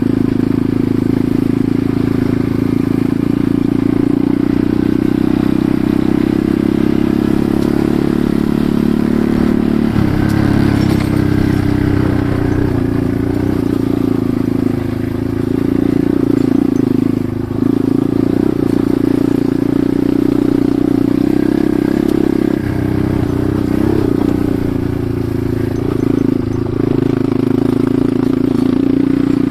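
Enduro motorcycle engine running while riding a forest track. It holds a steady note at first, then rises and falls with the throttle, with a few brief dips, and steadies again near the end.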